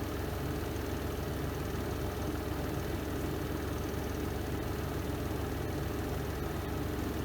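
Renova semi-automatic twin-tub washing machine on its spin cycle: the spin drum's motor running with a steady, low hum.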